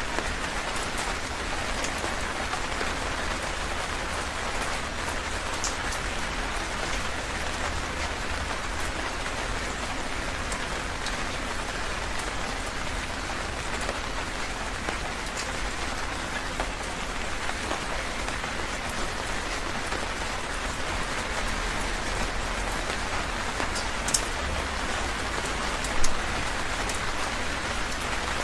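Heavy rain falling steadily: an even hiss with scattered single drops ticking, and one brief louder knock near the end.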